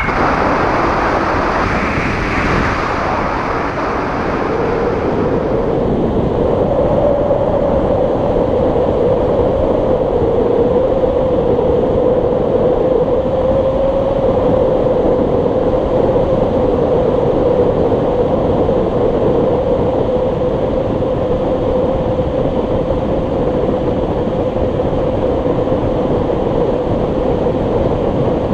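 JPX paramotor's two-stroke engine and propeller running at steady throttle in flight, a loud, even drone with a held tone, mixed with wind rush that is heavier in the first few seconds.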